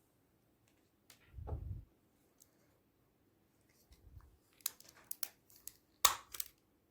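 Slime being squished and mixed by hand: a low soft squelch about one and a half seconds in, then runs of sharp sticky clicks and pops, loudest a little after six seconds.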